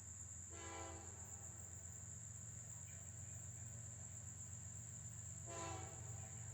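Locomotive air horn sounding two short blasts, at a distance, about five seconds apart. A steady high insect drone and a low rumble continue beneath.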